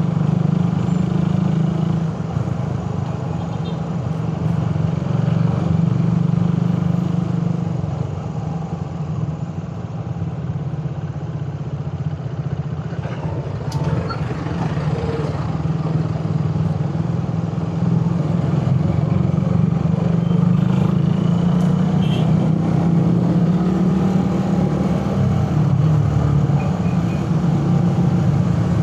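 Suzuki Raider 150 carburetted single-cylinder four-stroke motorcycle engine running under way. The engine note eases off about a third of the way in and picks up again a little past halfway.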